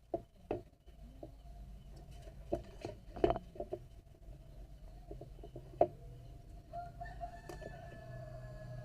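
A rooster crowing once in the background, about seven seconds in. Several sharp clicks and taps from close by are the loudest sounds.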